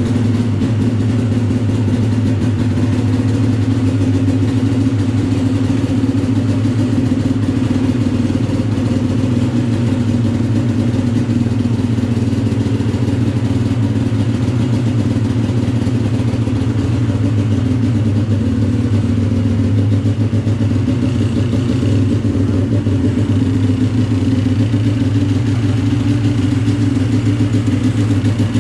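Polaris 600 CFI two-stroke twin snowmobile engine idling steadily on its first run after a full rebuild.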